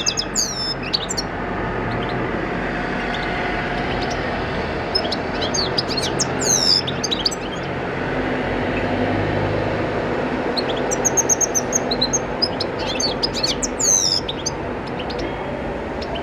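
European goldfinch singing in three bursts of rapid, high twittering chirps with pauses between, over a steady background noise.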